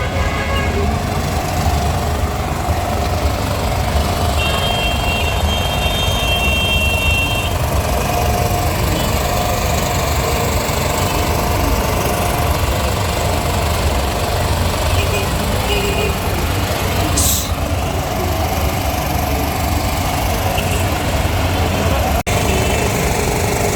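Steady low rumble of vehicle engines and road traffic, with a high steady tone for about three seconds starting around four seconds in.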